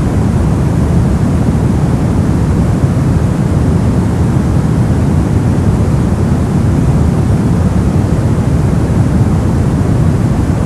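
Brown noise: a steady, deep rumbling hiss, strongest in the low end and falling off towards the treble, with no change.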